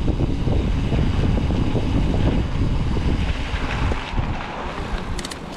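Wind rushing over the microphone and rumble of tyres on dirt trail as a Specialized Stumpjumper EVO Comp mountain bike rides downhill, easing off about four seconds in as the bike slows, with a few short clicks near the end.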